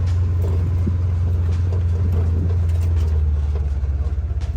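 A motor vehicle's engine running steadily, a loud, low, even drone.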